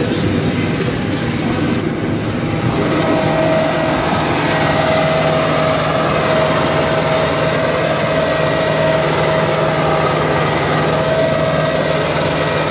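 New Holland TD5.105 tractor engine running steadily, heard from inside the cab. About three seconds in, a steady whine joins the engine hum.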